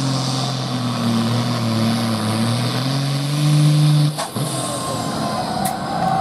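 Pulling tractor's engine running hard under load, its note climbing a little, then dropping away abruptly about four seconds in.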